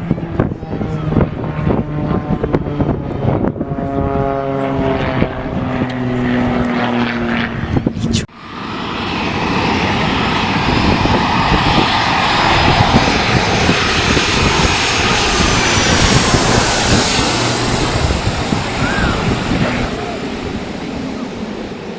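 Aircraft flying at an air show: a propeller engine drone that climbs in pitch, then, after a sudden break, a loud rushing noise of an aircraft passing that swells and then eases off.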